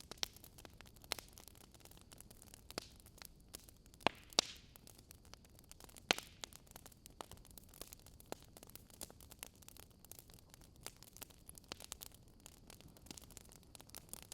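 Fire in a fireplace crackling: many small, irregular pops over a low hiss, with a few louder pops about four and six seconds in.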